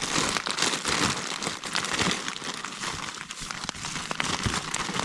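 Plastic bags and packaging crinkling and rustling as someone rummages through them by hand, with many small sharp crackles.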